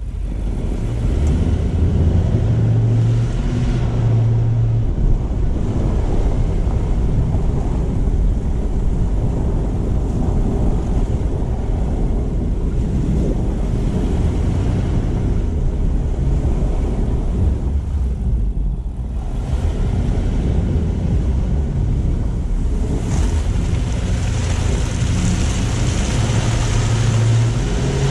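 Car driving on streets after a snowstorm: steady road and tyre noise over a low engine hum that rises and falls. The tyre hiss grows stronger in the last few seconds.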